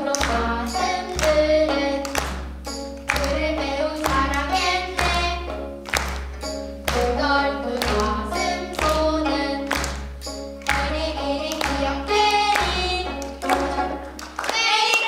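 Children's gayageum byeongchang ensemble singing together to plucked gayageum, over a steady low beat about once a second. The song ends near the close.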